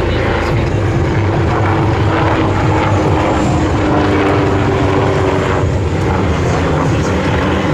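AW249 Fenice attack helicopter in display flight: loud, steady noise of its rotors and twin turboshaft engines, with a humming tone that rises a little in pitch about halfway through.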